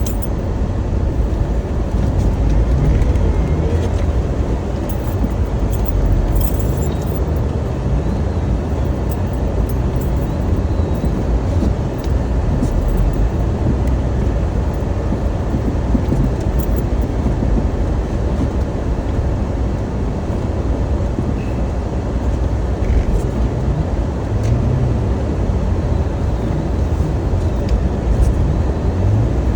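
Car driving, with a steady low rumble of engine and road noise and no distinct events.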